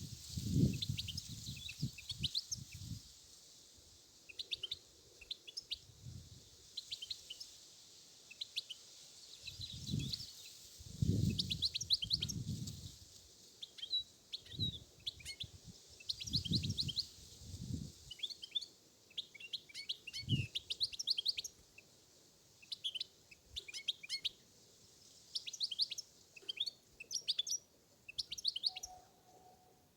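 European goldfinch singing: rapid twittering phrases of high chirps and trills, coming in runs with short gaps. Low rumbles, from wind buffeting the microphone, come and go, near the start and again in the middle.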